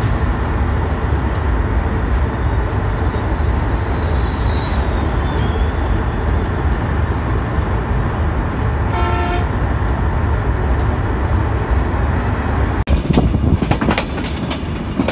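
Passenger train running at speed, a loud steady rumble and rush of wheels and carriage heard from on board. A horn toots once, briefly, about nine seconds in. Near the end the sound changes to sharper, repeated clicks of the wheels over rail joints.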